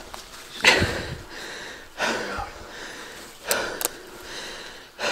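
A person breathing hard in heavy, audible breaths about every second and a half, with a couple of sharp clicks about three and a half seconds in.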